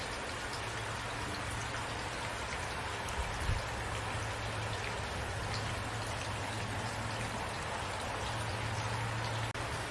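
Steady rain falling, with scattered drops ticking, over a low steady hum. A short low thump about three and a half seconds in, and the sound cuts out for an instant near the end.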